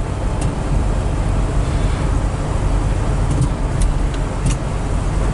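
Steady low road and engine noise inside the cabin of a 1979 Mercury Cougar XR7 cruising smoothly, with a few faint clicks.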